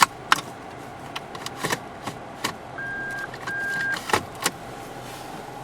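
Automatic transmission gear selector being moved through its positions: a series of sharp clicks, with two short beeps about three seconds in, over a faint steady engine idle.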